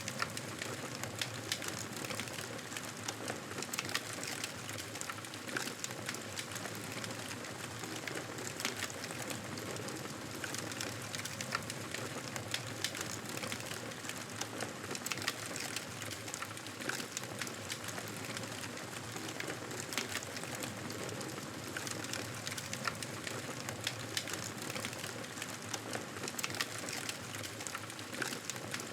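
Wood fire crackling in a fireplace: a steady hiss dotted with frequent small sharp pops and snaps.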